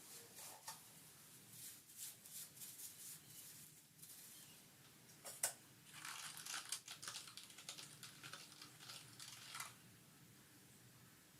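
Faint, irregular light clicks and taps, busiest in the second half, with one sharper click about five seconds in.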